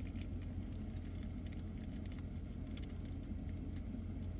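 Steady low hum of a car cabin with the engine running, with faint scattered light ticks and crinkles over it.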